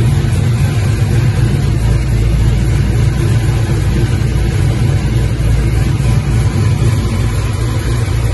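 Supercharged V8 of a 1968 Camaro idling steadily and cleanly, a belt-driven Roots-type blower with two four-barrel carburettors on top; the sound is deep and even, with no revving.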